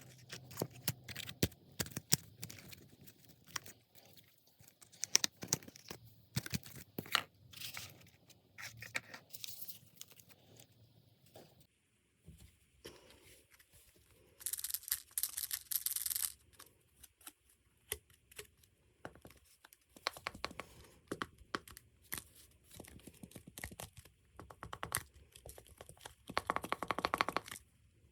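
Paper being handled and folded by hand: scattered crinkles, rustles and small taps. About halfway there is a longer, higher tearing sound, and near the end a dense run of rapid crackling clicks.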